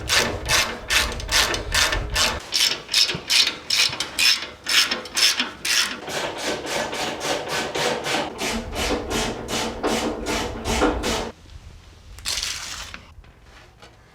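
Socket ratchet clicking in quick repeated strokes, about three a second, working the nylock nuts on the U-bolts. It stops about eleven seconds in, and one short rasp follows.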